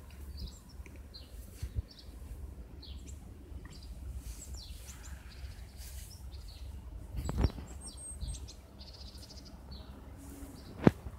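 Small birds chirping, many short high chirps scattered throughout, over a low rumble. Two sharp knocks stand out, about seven seconds in and again near the end.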